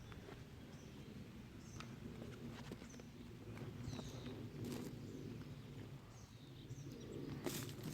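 Quiet outdoor ambience with a steady low rumble, a few faint short bird chirps, and several sharp clicks, the loudest about seven and a half seconds in.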